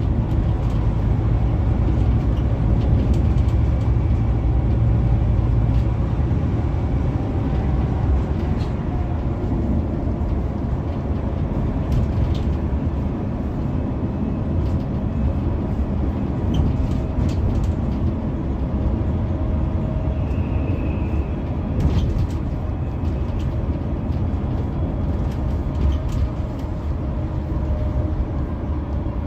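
Scania K360EB4 coach running on the road, a steady low engine and road rumble with a few short clicks and rattles.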